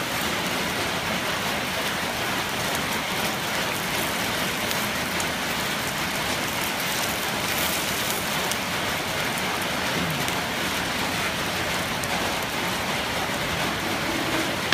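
Nom kruk rice-flour cakes frying in oil in a cast-iron multi-well pan: a steady sizzling hiss with light crackles.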